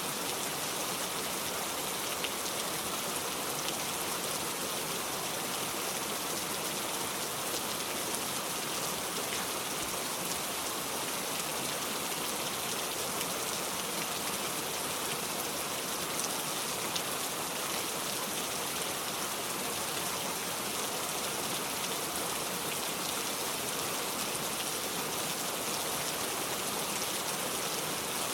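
Steady heavy rain, an even hiss of drops with no thunder.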